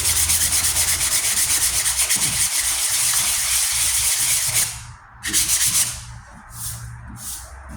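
120-grit sandpaper scrubbing over primer and body filler on a steel truck tailgate, in fast continuous strokes. It stops nearly five seconds in, then comes a short burst and slower separate strokes, about two a second.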